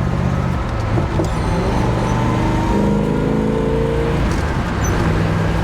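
The 396 big-block V8 of a 1967 Chevrolet Impala SS running under way, with road and wind noise. Its note climbs gently, then falls back about four seconds in.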